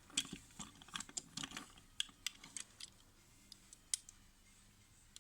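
Plastic parts of a Tobot Y transforming toy being moved and snapped into place by hand: a quick run of sharp little clicks over the first three seconds, then a few scattered ones.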